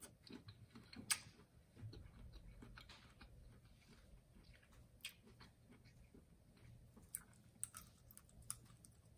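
Faint chewing of saucy boiled shrimp, with scattered wet mouth clicks and smacks; the sharpest click comes about a second in.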